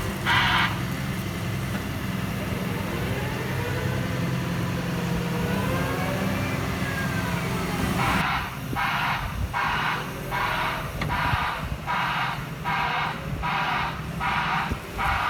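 Hyundai HW140 wheeled excavator's diesel engine running steadily, with its warning alarm beeping about twice a second in the first moment and again from about eight seconds in. Between the beeping, faint whines rise and fall over the engine.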